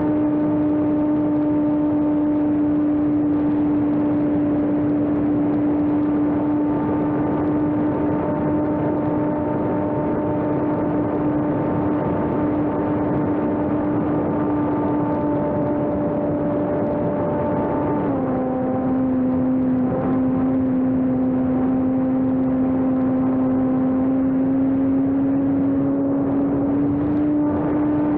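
Electric motor and propeller of a homemade RC airplane running with a steady whine over a rush of noise; about two thirds of the way through the pitch drops as the throttle is eased, then slowly climbs again.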